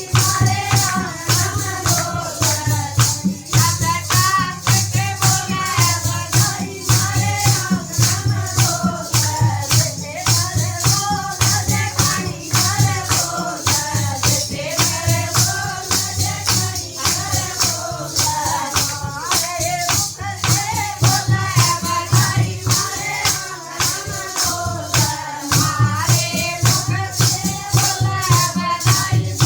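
Haryanvi folk song (badhai geet): singing over a fast, steady percussion beat.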